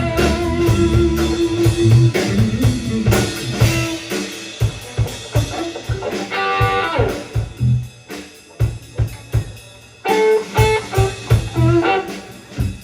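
A rock band playing an instrumental passage, with guitar, bass and drum kit and no singing. A guitar phrase slides down about six and a half seconds in. The band thins out for a couple of seconds, then comes back in full at about ten seconds.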